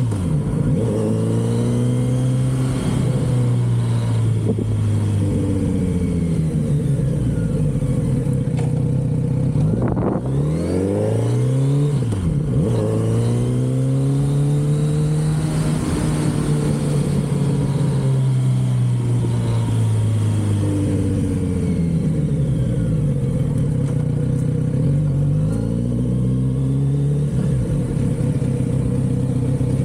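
Kawasaki Z900RS inline-four on its stock exhaust under way, revving up and dropping back several times as the bike is ridden through the gears. It holds a slowly falling pitch through the middle and winds up again near the end.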